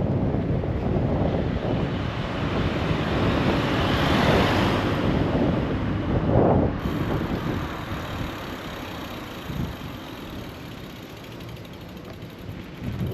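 Wind rushing over a bike-mounted action camera's microphone, mixed with city traffic noise. The noise swells about four seconds in and settles lower for the second half.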